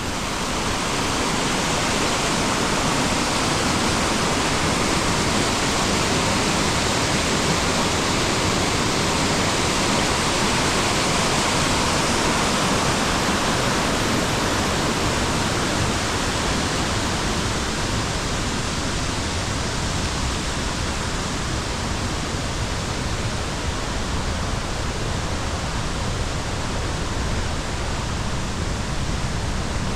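Mountain waterfall, a loud, steady rush of falling water that builds up over the first second or so and then holds even.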